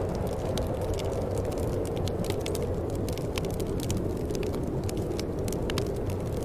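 Wood fire burning in a fireplace: a steady low rumble of flames with frequent small, irregular pops and snaps of crackling wood.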